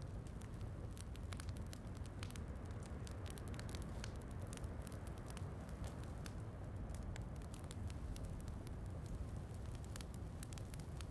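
Wood fire crackling, with many small irregular pops, over a steady low rumble of rain.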